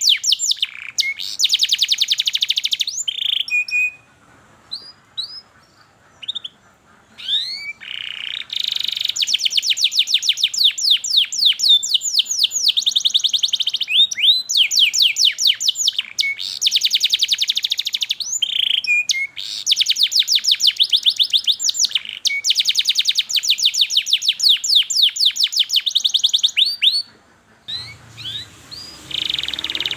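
Domestic canary singing long, rapid trills of repeated downward-sweeping chirps, broken by a quieter stretch of scattered single calls about four seconds in. Near the end the song stops briefly and resumes over a low hum.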